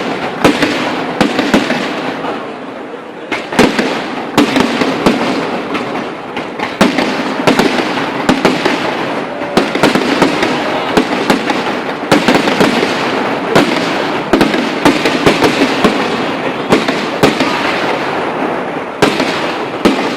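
Night fireworks display going off without a break: many sharp bangs over a dense crackle, easing briefly a couple of seconds in before picking up again.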